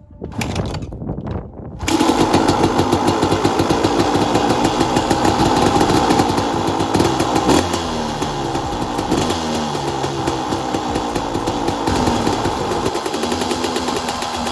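2001 Honda CR250's single-cylinder two-stroke engine sputtering for about two seconds, then catching and running loudly, its engine speed rising and falling a little as it warms up.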